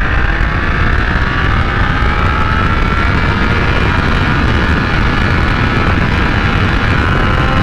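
Triumph Speed Triple 1200 RS's inline three-cylinder engine pulling hard under full throttle in first gear, heard from the rider's seat with heavy wind rush on the microphone.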